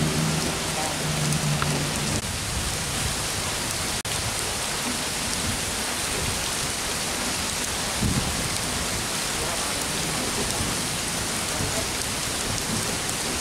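Heavy downpour hissing steadily on the ground and the track. A low humming tone from the departing KRL electric commuter train ends about two seconds in, and a dull low thump comes about eight seconds in.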